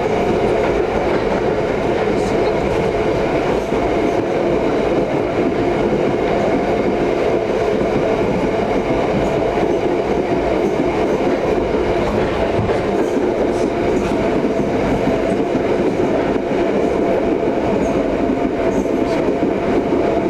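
Passenger train running along the track, a steady rumble of the carriage and wheels on the rails.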